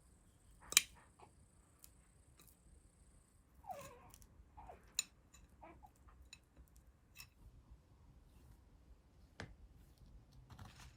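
Scattered light clicks and taps, with one sharper click about a second in.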